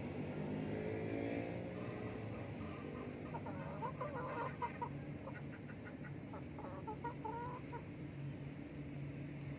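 Domestic chickens clucking, a run of short calls starting about a third of the way in, over a steady low hum.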